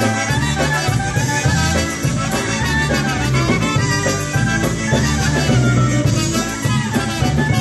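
Live polka band playing, with trumpet, bass and drum kit.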